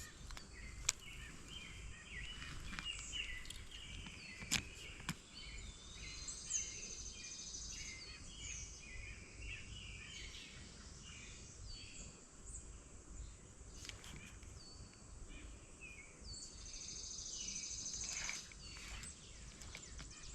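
Faint outdoor background noise with birds chirping and singing repeatedly throughout. A few sharp clicks come near the start and about four and five seconds in.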